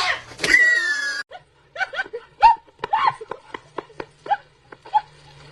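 A pet animal calling: about half a second in, one drawn-out call with a falling pitch, then a run of about ten short calls, each rising and falling in pitch.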